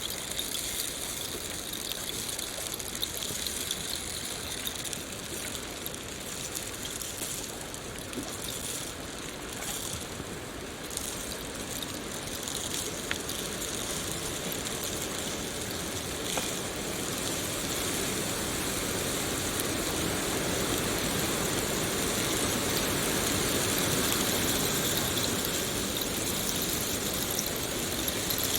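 Steady rushing water, like a stream or small waterfall, growing a little fuller about two-thirds of the way in.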